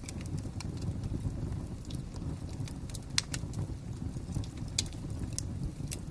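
Wood fire crackling: irregular sharp pops and snaps over a steady low rumble of the flames, with one louder pop about three seconds in.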